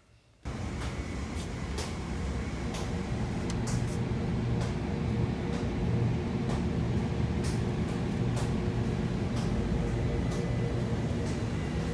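A steady low rumble with a hum, starting suddenly about half a second in, with scattered faint clicks.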